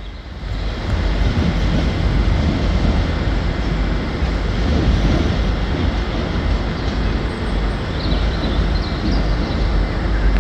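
A train running close by: a steady, loud rumble that swells about a second in and holds, with a few faint high squeals near the end.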